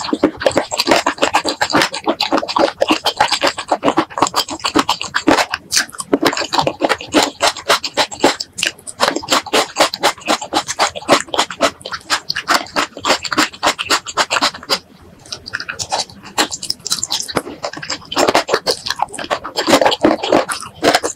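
Close-miked ASMR eating of spicy boneless chicken feet: continuous chewing with rapid mouth clicks and squelches, easing briefly about fifteen seconds in before picking up again.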